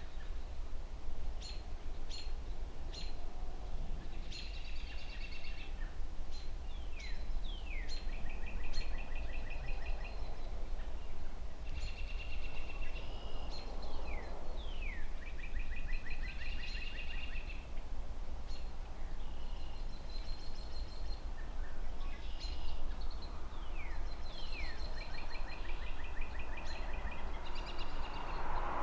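Songbirds singing over and over, in short trills and quick downward-sweeping notes, over a steady low rumble of distant city traffic. Near the end a passing car's noise swells up.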